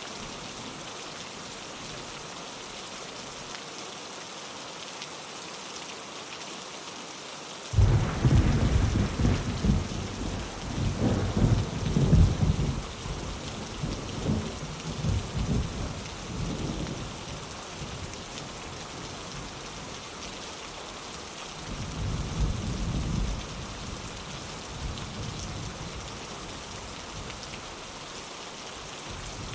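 Steady rain falling on a window, with a sudden loud thunderclap about eight seconds in that rolls and rumbles on for several seconds. A second, weaker roll of thunder follows later.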